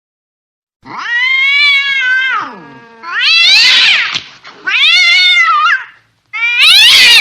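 An angry cat yowling: four long, drawn-out wailing calls that bend up and down in pitch, starting about a second in, the last one the loudest and harshest.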